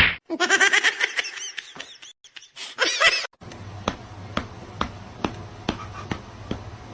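High-pitched laughter for about three seconds. It is followed by a steady low hum with sharp, evenly spaced clicks, a little over two a second.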